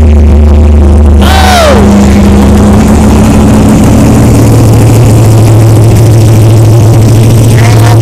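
A car's loud, steady low drone that shifts slightly higher about four seconds in. A short falling tone sounds over it about a second and a half in.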